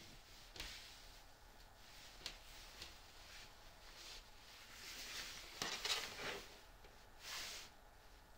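Faint handling noises: light clicks, taps and rustles, with a louder cluster of clicks about six seconds in and a short swish near the end, as parts of an air conditioner are worked on.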